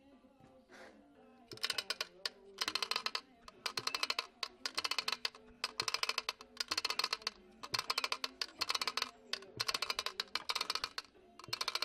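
Strange noise from inside the housing of a Staub PP6D walk-behind tiller: bursts of rapid clicking or rattling, about one burst a second, starting about a second and a half in. The owner does not know its cause.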